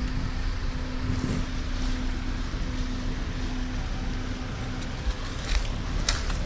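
Off-road vehicle engine running steadily with a low rumble, its faint steady note dying away about five seconds in. A couple of short knocks come near the end.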